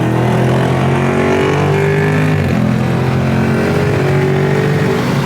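Mopar car engine accelerating hard through the gears: its pitch climbs steadily, drops at an upshift about two and a half seconds in, then climbs again.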